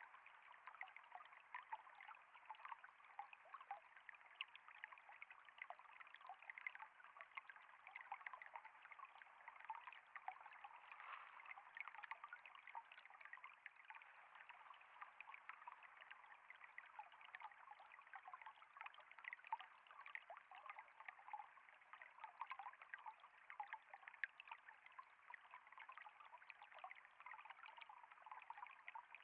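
Water trickling and splashing in a small flowing stream, a steady babble of many small splashes.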